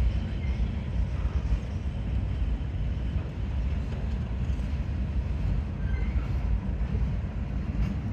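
A freight train of flat cars rolling past, a steady low rumble with no let-up.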